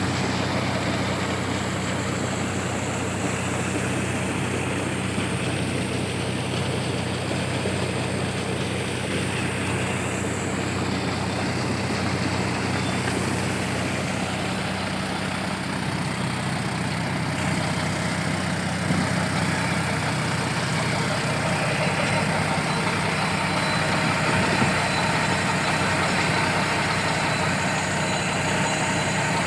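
Tractor engine running steadily at a constant speed, driving a large water pump, with a constant rushing noise over the engine note.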